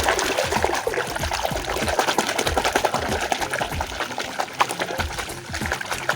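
Running water splashing over a toy being washed by hand, with many small clicks and knocks, stopping near the end.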